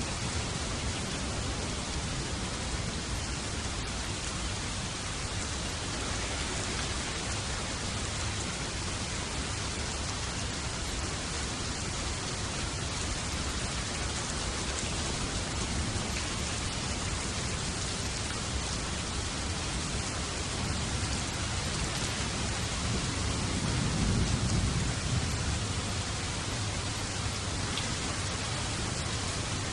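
Steady heavy rain falling, with a roll of distant thunder rumbling up a little past the middle.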